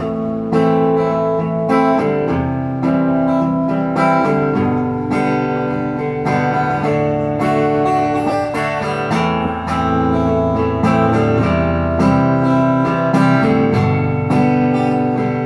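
Acoustic guitar playing a song's introduction, strummed chords in a steady rhythm, before the singing comes in.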